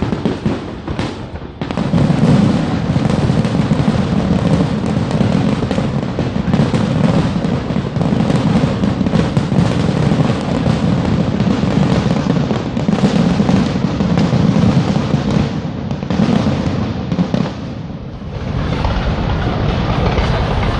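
Fireworks display: a dense, continuous barrage of bursts and booms that starts about a second and a half in and eases off near the end.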